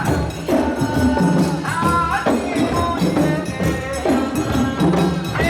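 Live African-style parade music: group singing over drums and jingling hand percussion, with a steady beat.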